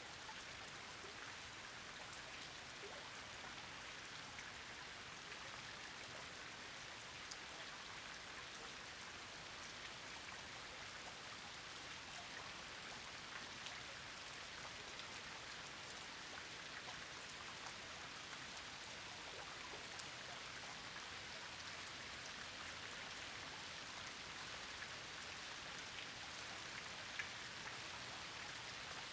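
Steady rain falling, with scattered separate drops ticking through the even hiss.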